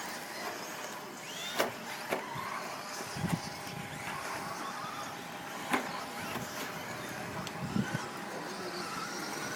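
Radio-controlled 2WD trucks racing on a track: a steady running hum with a faint whine, and scattered sharp clicks and knocks from the cars, with a couple of duller thumps about three seconds in and near the end.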